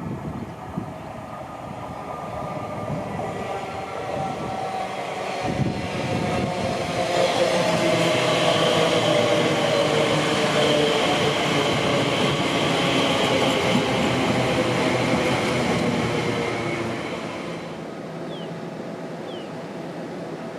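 A train passing along the tracks, building up, running loudly for about ten seconds, then fading away, with a whine that slides slowly down in pitch as it goes by.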